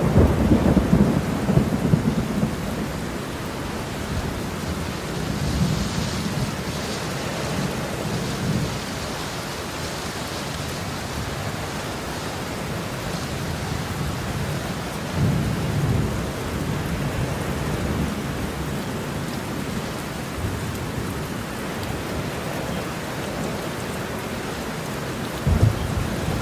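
Heavy rain falling steadily, with thunder rumbling: a loud rumble at the start, softer ones about five and fifteen seconds in, and two short, louder thunder cracks near the end.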